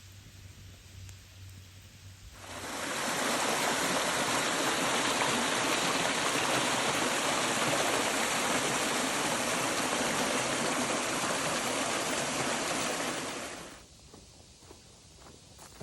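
Steady rush of running water that starts about two and a half seconds in and fades out shortly before the end.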